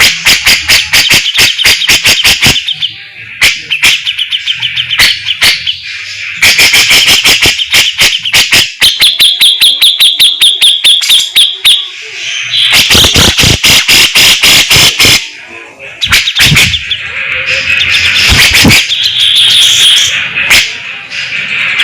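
Grey-cheeked bulbul (cucak jenggot) singing in fast, harsh rattling chatter: runs of sharp clipped notes, several a second, broken by short pauses.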